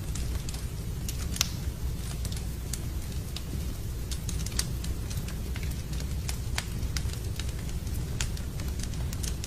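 Wood fire in a fireplace crackling, with frequent irregular sharp pops and snaps, one louder about a second and a half in, over a steady low rumble.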